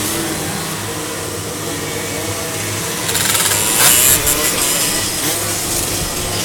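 Car engine running, its pitch drifting slightly, with a burst of hissing about three seconds in.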